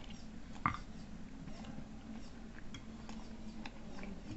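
Close-up chewing and soft mouth clicks while eating stewed chicken off the bone by hand, with one sharper click about two-thirds of a second in.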